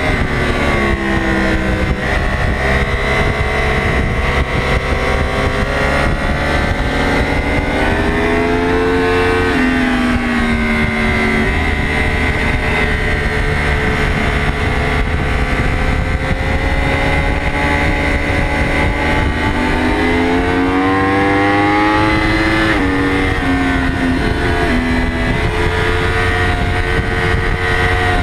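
Yamaha YZF-R1 crossplane inline-four race engine heard from on board at racing speed. Its pitch falls at first as the bike slows, then climbs under hard acceleration, dropping sharply at an upshift about a third of the way in and again about three quarters through, over steady wind rush.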